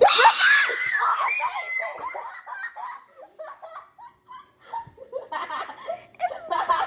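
A young woman shrieking and laughing in excitement as a photocard is revealed. It is loudest and highest at the very start, then breaks into choppy laughter that trails off, and picks up again in the last couple of seconds.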